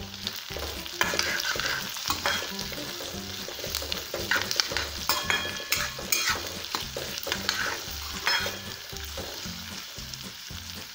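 Metal spatula scraping and stirring sliced onions and chopped green capsicum around a metal kadai, with repeated clinks against the pan, while the vegetables sizzle in hot oil.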